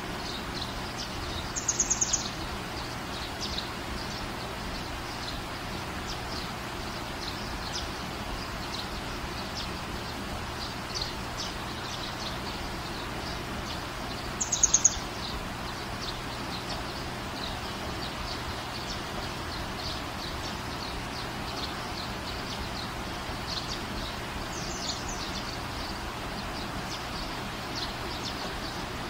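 Small birds chirping over steady background noise, with two louder quick runs of chirps about two seconds in and again about halfway through.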